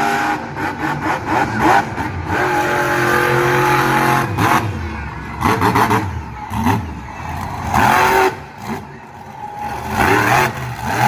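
Monster truck engine revving hard in repeated surges, its pitch climbing and falling again and again as the throttle is blipped and held during a freestyle run.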